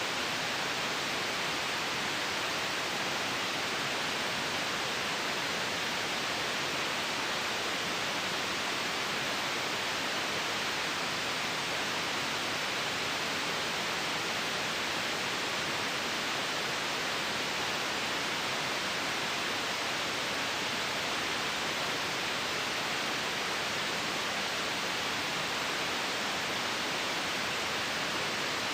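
Steady white noise for sleep: an even, unchanging hiss.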